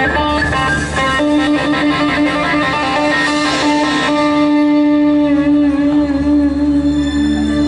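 A band playing a song's instrumental intro, led by electric guitar. Quick runs of notes come first, then long held notes from about four seconds in.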